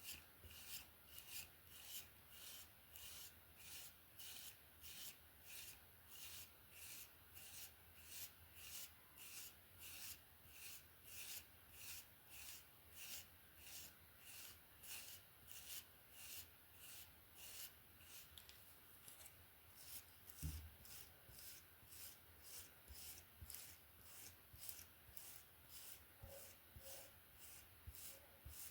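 A hairbrush drawn through hair in soft, steady, evenly spaced strokes, a little faster than one a second, with a single dull bump about two-thirds of the way in.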